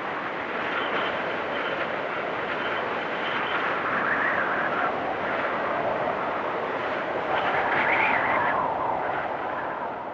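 Storm wind rushing steadily, with gusts swelling higher and louder about four seconds in and again near eight seconds.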